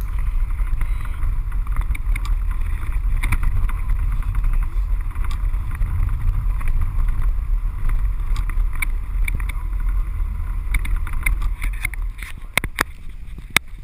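Steady low rumble of a car driving on a snowy mountain road, heard from inside the cabin, with scattered light clicks and knocks. The noise drops and changes near the end.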